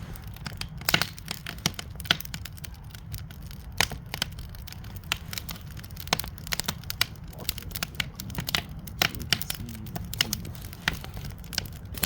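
Wood campfire crackling, with sharp irregular pops several times a second over a steady low rumble.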